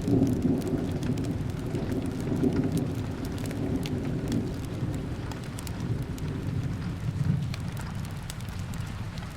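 Steady rain with a low rumble of thunder that fades away in the second half, over scattered sharp crackles from a wood fire.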